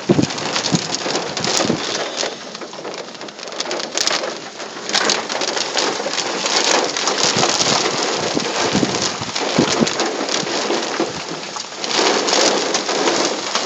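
Heavy thunderstorm rain drumming on a car, heard from inside the cabin, a dense patter of individual drop impacts. It grows heavier about five seconds in and again near the end.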